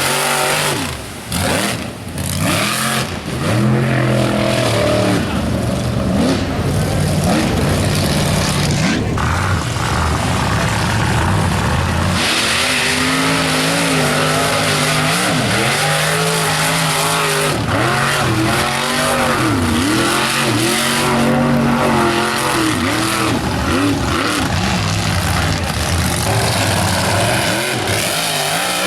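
Mega truck engines revving hard while bogging through a mud pit, their pitch rising and falling again and again over a heavy hiss.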